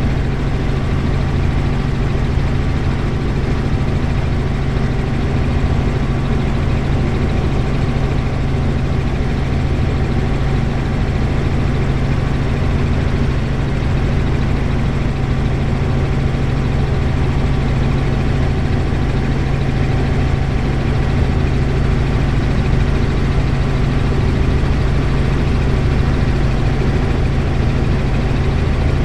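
Helicopter engine and rotor running steadily in flight, a loud, even hum that does not change.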